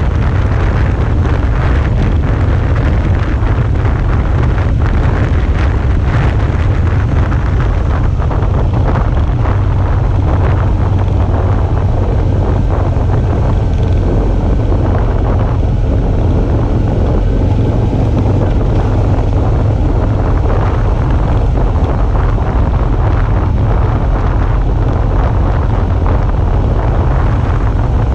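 Suzuki V-Strom 650's V-twin engine running steadily under way, nearly buried in heavy wind buffeting on the microphone, with a deep rumble throughout.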